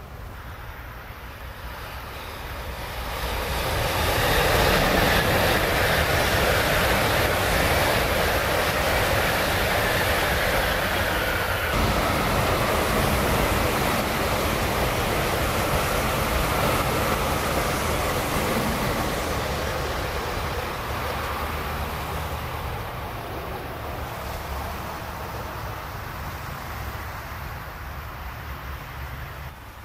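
Tokaido Shinkansen high-speed train passing at speed: its rushing noise builds over a couple of seconds, holds loud for about fifteen seconds with a slowly falling pitch, then fades gradually as the train runs away.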